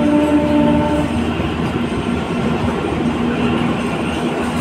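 Kalka–Shimla narrow-gauge toy train running along the track, a steady rumble of wheels and carriages heard from a coach window. A steady droning tone fades out about a second in, leaving a fainter broken tone under the rumble.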